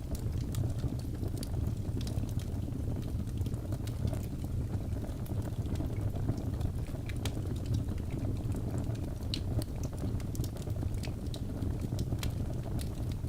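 Logs burning in a fireplace: a steady low rumble of flame with many sharp crackles and pops scattered at irregular intervals.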